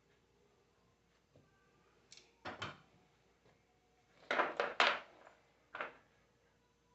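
Alternator parts being handled on a workbench: a few short scrapes and knocks, a pair about two seconds in and four more in quick succession from about four to six seconds.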